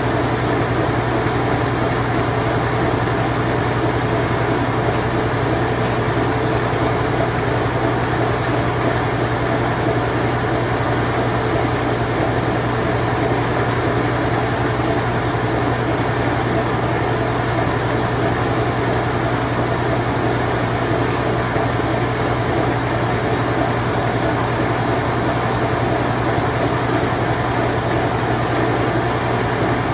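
Late-1980s Whirlpool Imperial Clean Touch washing machine running its spin cycle: a steady low motor hum under an even whir that does not change.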